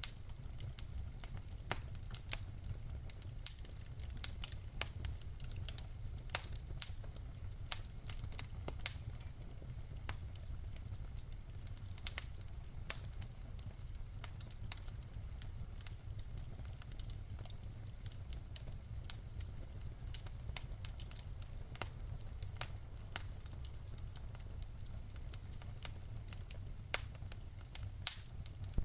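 Wood fire burning in a fireplace: logs crackling with irregular sharp pops, a few louder snaps among them, over a low steady rumble of the flames.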